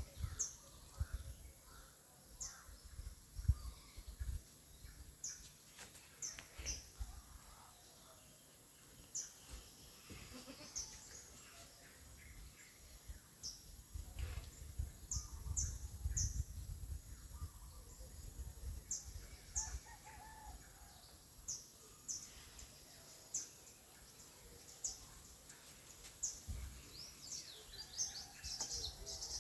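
A small bird calling: short, high chirps repeated every second or two, with low rumbling underneath.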